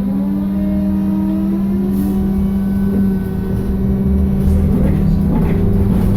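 BKM-221 articulated trolleybus accelerating, heard on board: the electric traction motor's whine rises in pitch over the first two or three seconds, over a steady low hum and road rumble.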